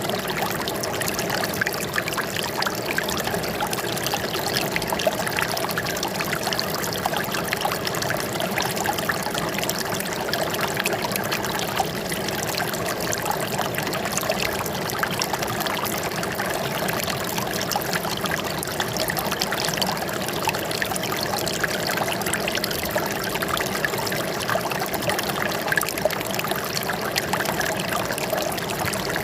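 Flowing water trickling steadily, an unbroken, even rush with no pauses or changes.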